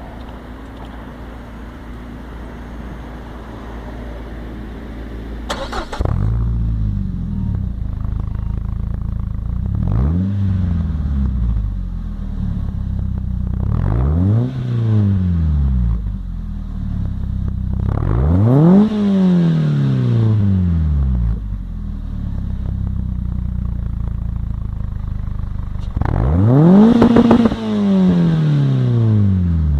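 Peugeot 206 S16's 2.0-litre four-cylinder petrol engine, heard through its SSG exhaust, catching about six seconds in after some wind noise on the microphone, then idling. It is revved four times in quick blips, each rising and falling straight back to idle; the last, near the end, is the loudest and longest.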